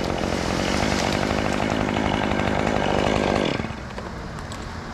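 Chainsaw running at high revs, cutting into the hickory trunk, with a steady pitch until the throttle comes off about three and a half seconds in and the sound drops to a quieter, lower level.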